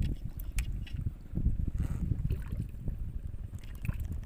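Irregular low sloshing and splashing of water with scattered short knocks, as a hooked patin (striped catfish) thrashes at the surface while being reeled in and landed.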